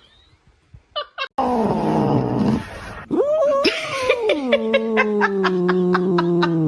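A cat yowling. A sudden loud, rough growl comes a little over a second in. It is followed by one long, low yowl that rises, then sinks in pitch and holds for about four seconds.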